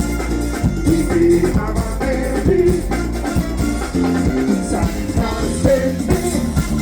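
Live band playing upbeat dance music with a steady beat and a melody line.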